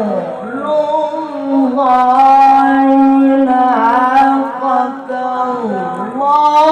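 Male Quran reciter's voice in melodic tilawah style, holding long, drawn-out notes that bend and waver in pitch, with a deep swoop down near the end before rising again.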